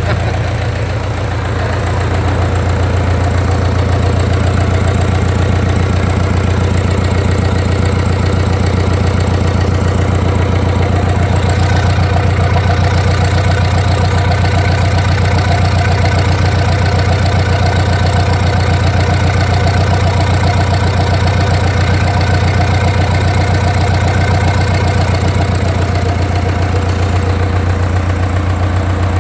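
Mitsubishi 4D32 four-cylinder, 3.6-litre, naturally aspirated direct-injection diesel engine running steadily. It dips slightly about a second in, then holds a little louder.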